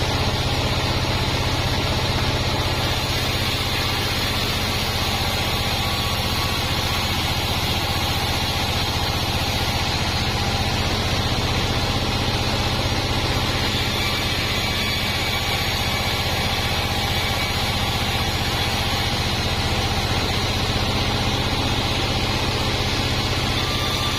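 Band sawmill running steadily: a constant low machine drone with a broad hiss over it.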